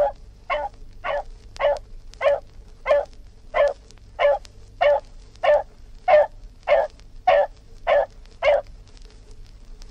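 A dog barking steadily, about fifteen short barks at an even pace of roughly one and a half a second, stopping near the end.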